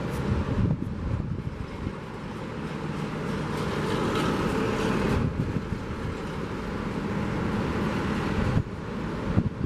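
Sea surf washing on the beach, with a vehicle passing on the coastal road, loudest from about three to five seconds in, and wind on the microphone.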